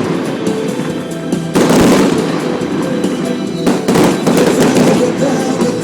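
Fireworks crackling and popping in dense rapid volleys over loud music.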